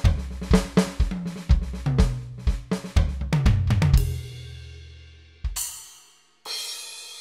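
Drum samples from a Roland SPD-SX Pro sampling pad played live: a quick pattern of kick, snare and hi-hat hits with deep, ringing bass booms for about four seconds, then the sound dies away. Two single cymbal-like hits follow, the second ringing out.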